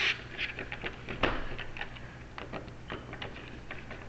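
Scattered light clicks and small rattles of door lock hardware being worked into place, with one sharper click about a second in.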